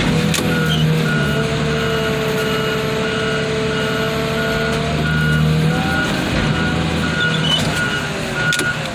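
Heavy machine's diesel engine running under load with a steady whine, while its reversing alarm beeps about one and a half times a second from about one and a half seconds in almost to the end.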